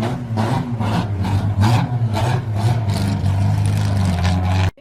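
ABT-tuned Audi SQ5's engine and exhaust running, a steady low drone with a sharp crackle repeating about three times a second; it cuts off suddenly near the end.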